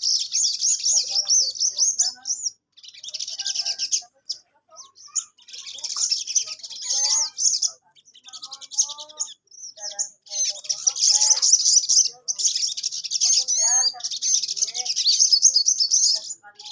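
Ruby-cheeked sunbird (sogon) singing hard in rapid, high-pitched twittering phrases. The phrases come in bursts of one to two seconds, about seven of them, with short pauses in between.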